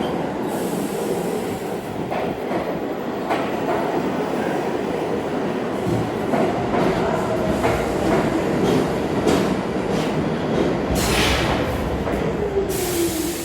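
NYC subway R46 train running on the rails, a steady rumble with wheels clicking over rail joints about once a second. Near the end a tone falls in pitch.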